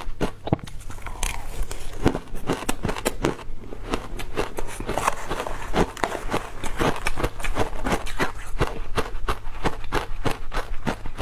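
Ice being bitten and chewed close to the microphone: a rapid, continuous run of sharp crunches and cracks.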